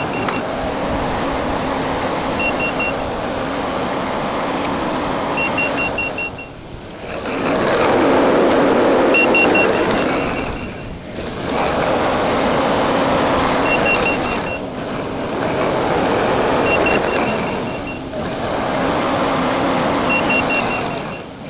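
Kubota SVL95-2 compact track loader's diesel engine running hard while it works the hay bales. Its reverse alarm gives short runs of quick beeps every few seconds, and the engine noise drops away briefly four times.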